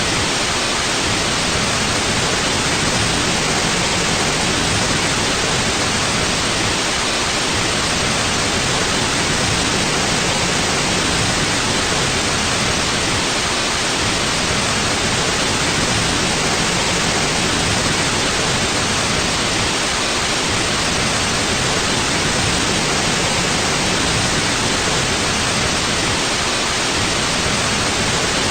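Steady white noise: an even, unchanging hiss strongest in the upper range.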